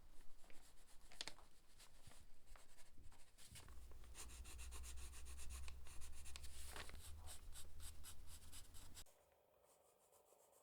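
Faint, irregular scratching and rubbing strokes over a low rumble, cutting off abruptly about nine seconds in.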